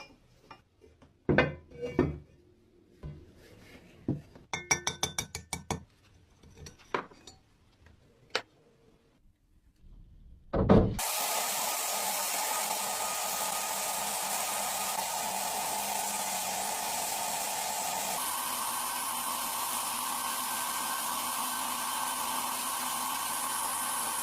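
Small hard parts clicking and clinking in handling, with a quick run of ticks, then a loud steady hissing machine noise that starts suddenly about halfway through and shifts slightly in pitch a little later.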